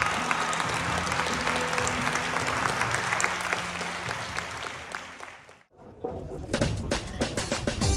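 Audience applauding, fading out about five and a half seconds in; after a brief silence, music begins.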